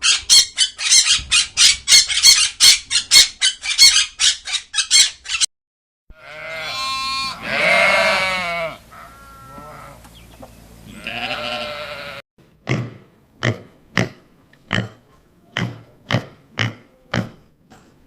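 Farm animals calling in three separate stretches: first a rapid chatter of short calls lasting about five seconds, then two long calls with a wavering pitch, then about a dozen short calls at an even pace.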